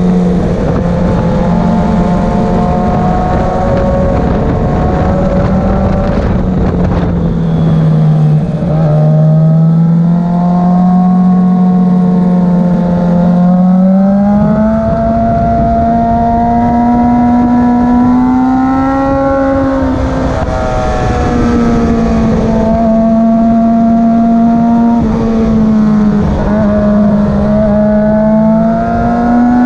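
Motorcycle engine running hard under way, its pitch climbing and falling smoothly as the throttle opens and closes through the corners and gears.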